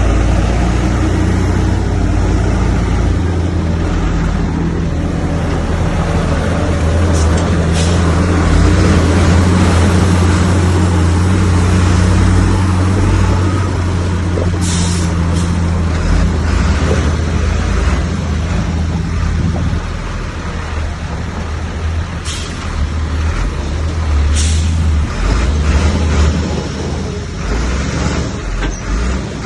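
Heavy diesel earthmoving machinery engine running under load, with a steady deep hum that turns more uneven in the last third, and several short high-pitched hisses.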